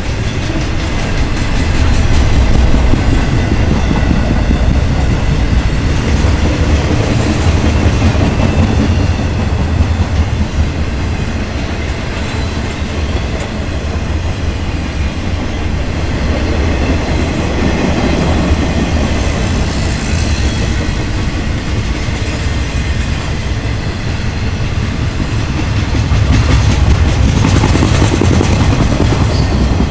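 BNSF intermodal freight train rolling past, with a heavy steady rumble and wheels clicking over the rail joints. It swells louder near the start and again near the end.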